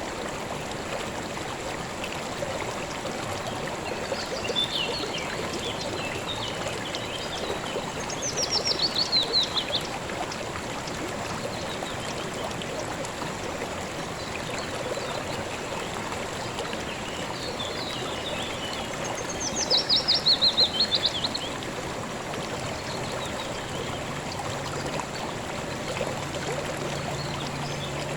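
River water flowing steadily over stones. A songbird sings twice over it, each time a quick run of notes falling in pitch, about eight seconds in and again about twenty seconds in, with softer chirps just before each.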